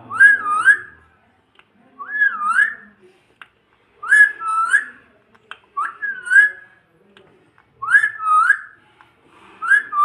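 Pet parrot whistling the same short phrase over and over, a wavering up-and-down whistle repeated about once every two seconds.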